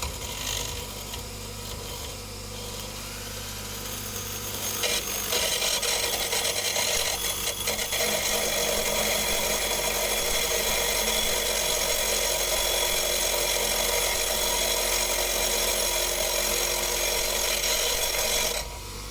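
Electric grindstone running with a steady hum, a steel Torx screwdriver bit held against the wheel to grind its tip thinner. The harsh grinding noise grows thicker about five seconds in and holds steady, then cuts off suddenly.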